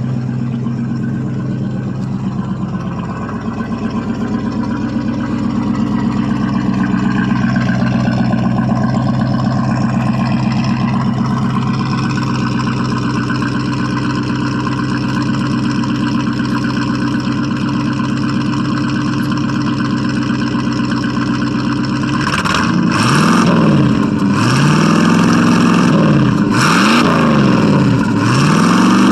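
1979 Chevrolet C10 pickup's engine idling steadily, then revved up and down about four times in quick succession near the end.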